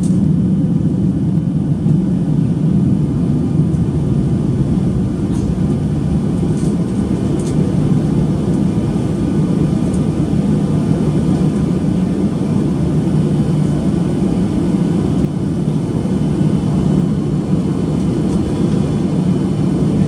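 Steady low rumble of cabin noise inside a Boeing 737-800 airliner, even and unbroken throughout.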